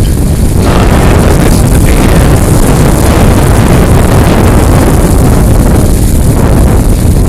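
Storm-force wind buffeting the microphone: a loud, continuous, low rumbling roar.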